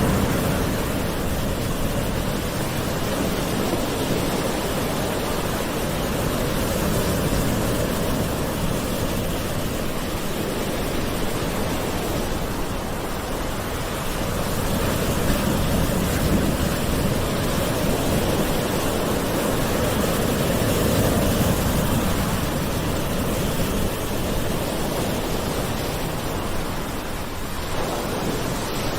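Gentle ocean waves washing onto a shore, a steady wash of surf that swells and eases slowly every few seconds.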